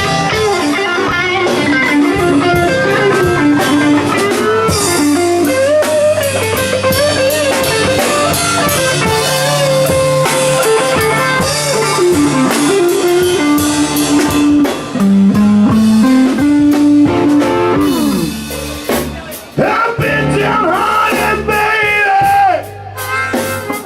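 Live blues band playing an instrumental passage, with an electric guitar playing bending lead lines over bass and drums.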